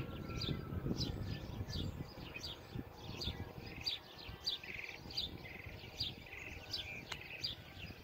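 Birds chirping: short falling chirps repeat about once or twice a second throughout. A low wind rumble on the microphone fades out about three seconds in.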